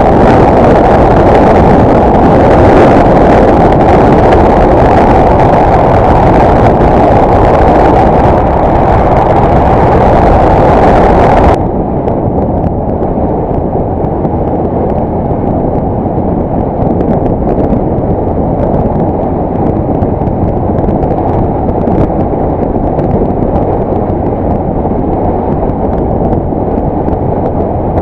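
Loud, dense wind and riding noise on a helmet-mounted action camera's microphone while riding a Yamaha YBR 125 motorcycle. About a third of the way in, the sound suddenly turns duller and a little quieter, and the upper range cuts out.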